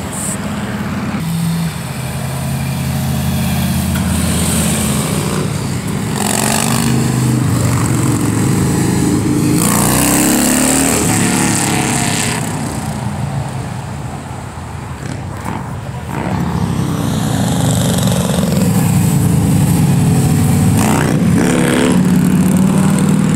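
Passing cars' engines and exhausts making a loud, low, steady rumble that swells and fades twice as cars go by.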